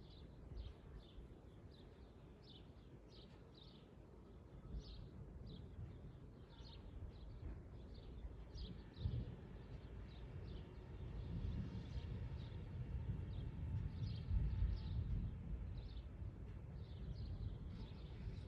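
Small birds chirping, short high notes repeated about every half second, over a low rumble that grows louder about halfway through.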